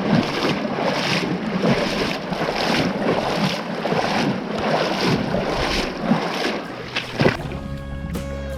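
Water swishing and sloshing in a steady rhythm of about two strokes a second, with wind on the microphone. Near the end it cuts to music.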